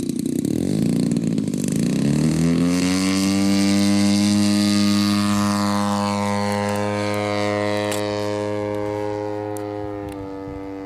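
Giant-scale RC P-40's BLE 55 rear-exhaust engine opened up for the maiden takeoff. Its pitch rises over the first couple of seconds, then holds a steady drone that slowly fades as the plane flies away.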